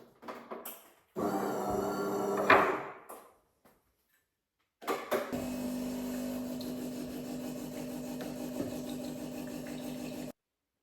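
A small motor running with a steady hum, heard in two short clips separated by silence, each cutting off abruptly.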